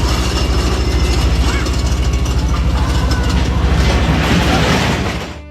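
A steady, loud, low mechanical rumble with fast, even clattering. It cuts off abruptly near the end.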